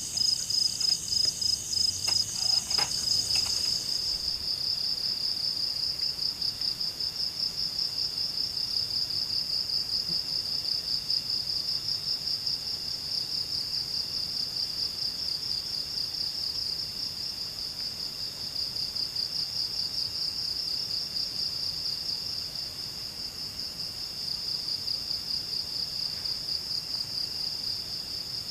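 Steady, high-pitched insect chorus trilling with a fast pulse; a second, higher-pitched insect joins for the first few seconds. A faint knock about three seconds in.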